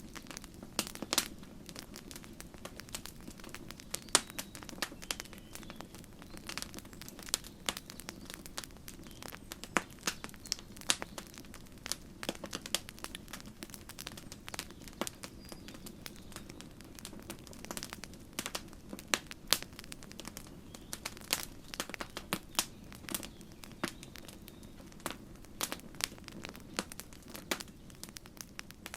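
Campfire crackling, with irregular sharp pops and snaps over a steady low rumble of the burning wood.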